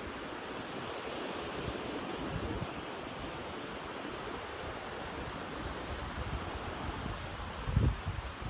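Ocean surf washing steadily on the shore, with wind buffeting the microphone in a brief gust near the end.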